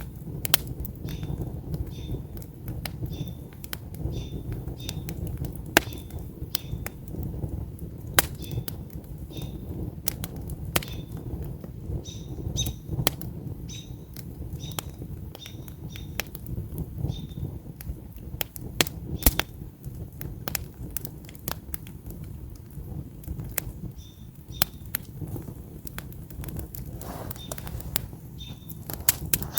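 Wood campfire burning: sharp, irregular crackles and pops from the logs over a low rush of flame. A short high chirp repeats about every half second in the background.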